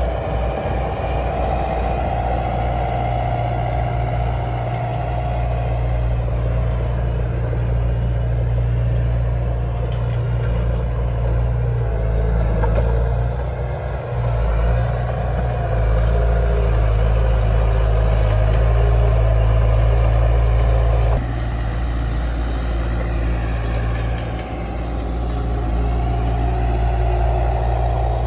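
Heavy diesel engine of earthmoving machinery running, a deep steady rumble that grows louder a little past halfway and drops abruptly about three-quarters through.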